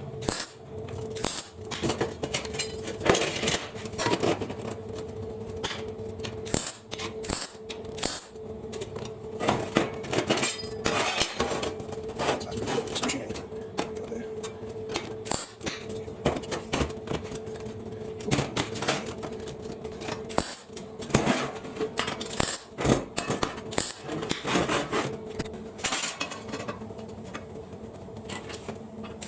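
Cut steel plate panels being handled and fitted together, with irregular metallic clinks, knocks and scrapes over a steady hum.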